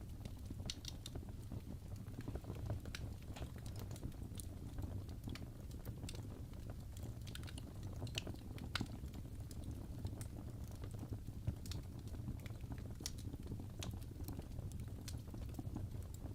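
Fireplace crackling: a steady low rumble of the fire with irregular small pops and snaps.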